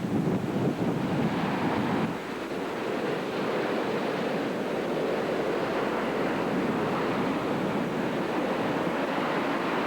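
Hurricane surf and wind: a dense, steady rush of breaking waves with wind buffeting the microphone. The heaviest buffeting eases about two seconds in.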